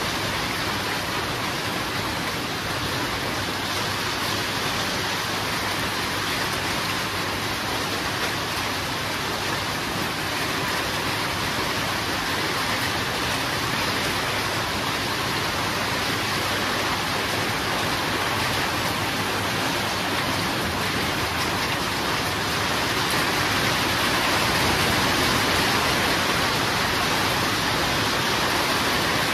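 Steady heavy rain, a dense even hiss, swelling slightly a little after the middle.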